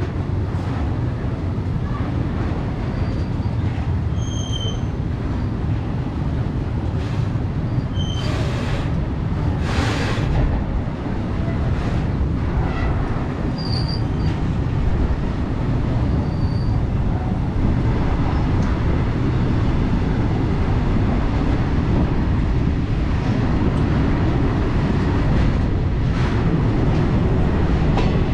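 Express passenger train in motion, heard from on board: a steady rumble and rattle of the coach wheels on the track. There are a few brief high squeaks, and a couple of surges of rushing noise about a third of the way in.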